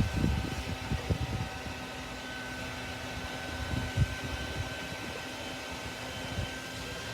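Shop vacuum running steadily with a constant whine while it sucks up a honeybee swarm. Low wind buffets hit the microphone in the first second or so and again about four seconds in.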